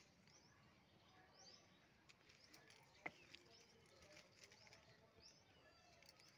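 Near silence with faint, short bird chirps repeating in the background, and a single sharp click about three seconds in.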